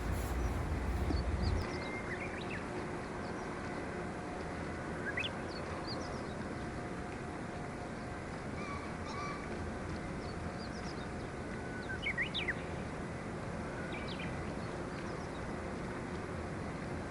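Birds giving short, thin chirps every few seconds over a steady outdoor background hiss, with a low rumble in the first second or two.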